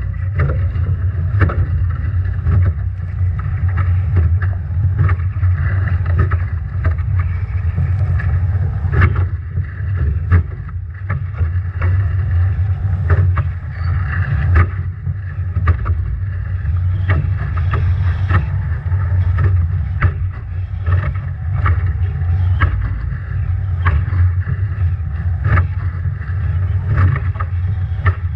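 Strong wind buffeting the microphone aboard a Nacra 17 foiling catamaran in storm conditions, a steady low rumble. Over it come frequent, irregular sharp slaps of waves and spray hitting the boat.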